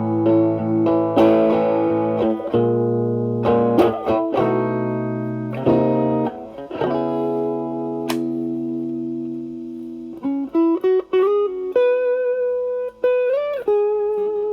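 Stratocaster with single-coil pickups played through an Ibanez Tube Screamer Mini overdrive pedal, drive set around 3, into the clean channel of a Marshall Valvestate amp. Sustained chords ring for about the first ten seconds, then a single-note lead line follows with string bends.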